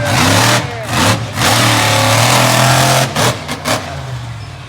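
Monster truck engine revving hard, its pitch rising and falling with the throttle. It holds at high revs for over a second in the middle, then gives a few short throttle blips.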